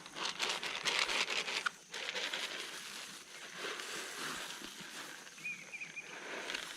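Pigs eating and rooting in their feed: rapid crunching and rustling, busiest in the first two seconds, then a lighter steady rustle, with a brief high chirp near the end.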